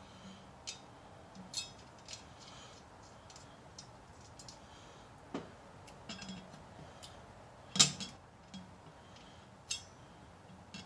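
Scattered metallic clinks and taps of hand tools on metal during work on an engine, with one louder clank about eight seconds in.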